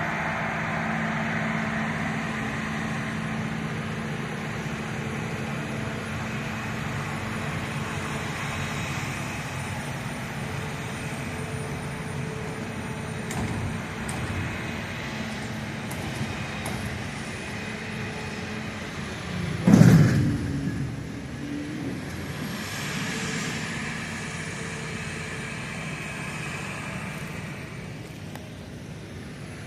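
Heavy farm vehicle engines running steadily during a corn silage harvest, with a sudden loud thump about two-thirds of the way through.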